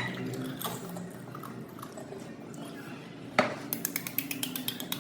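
Quiet eating sounds from the panipuri mukbang, then a single knock a little over three seconds in. After it, background music with a rapid, even tapping beat starts.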